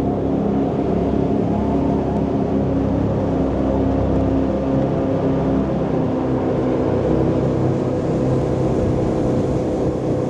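Tour jet boat's marine engines running steadily under way, a continuous engine drone with a low hum and a rush of noise over it.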